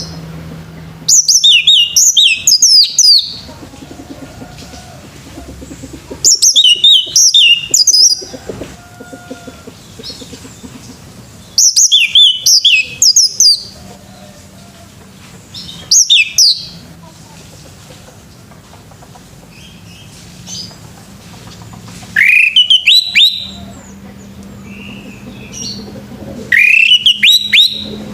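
Male orange-headed thrush (anis merah) singing: six loud phrases of quick, sweeping whistled notes, a few seconds apart. A faint low steady hum runs between the phrases.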